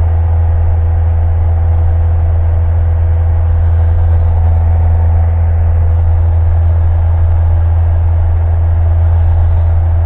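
Cessna's single piston engine and propeller droning steadily in the cockpit, a constant low hum.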